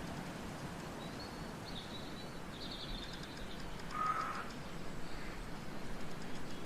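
Wild birds calling over a steady outdoor background hiss: a run of high, quick chirps in the first few seconds, then one clear whistled note about four seconds in.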